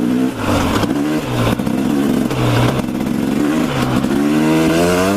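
Motorcycle engine revving up and down while being ridden, its pitch climbing and dropping several times, with a long climb near the end.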